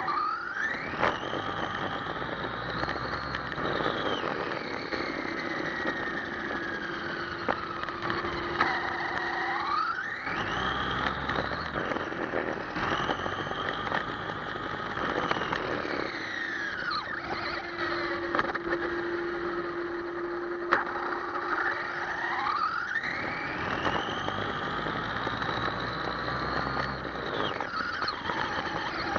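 Electric motor and drivetrain of an ECX Amp MT RC monster truck whining, the pitch climbing as it accelerates and sliding down as it slows, several throttle runs in a row over a hissing background. A steady low hum sounds in the pauses between runs.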